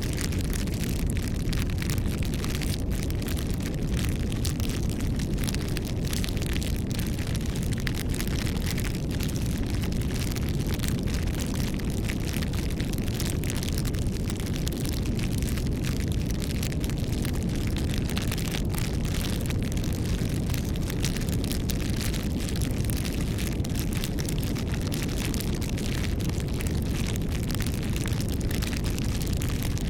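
Wood bonfire burning: a steady low rumble with many small crackles and pops throughout.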